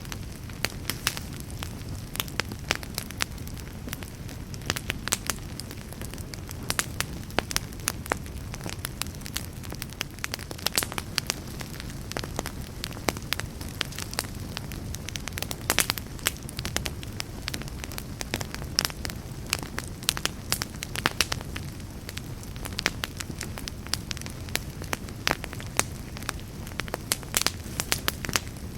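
Fireplace fire crackling, with sharp irregular pops and snaps several times a second over a steady low rumble.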